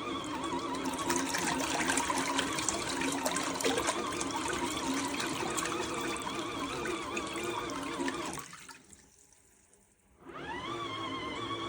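Small portable washing machine running, its motor humming while the water churns. The motor stops about eight and a half seconds in, then starts again with a rising whine as it speeds back up.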